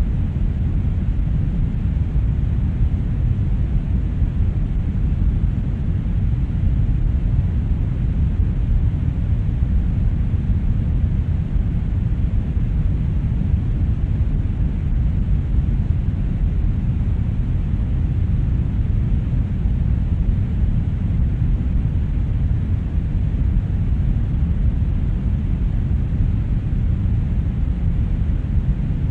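Brown noise: a steady, unchanging deep rumbling hiss, with most of its energy in the low bass and little treble.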